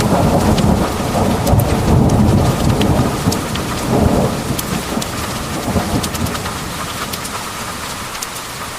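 Heavy rain pouring, with a long roll of thunder rumbling loudest in the first few seconds and fading away toward the end. Individual drops tick sharply over the steady hiss of the rain.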